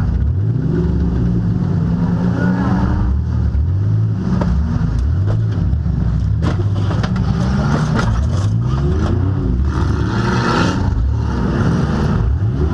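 Demolition-derby car engines revving up and down, with a few sharp knocks of metal on metal.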